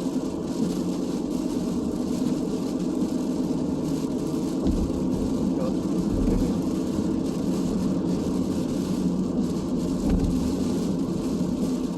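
Steady cabin noise of a car driving at highway speed: engine and tyre noise with a hiss from tyres on wet pavement.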